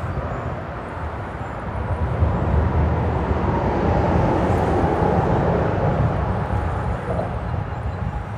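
Freeway traffic rumbling on the bridge overhead. The rumble swells about two seconds in, stays loudest through the middle, and eases off near the end, as a heavy vehicle crossing would.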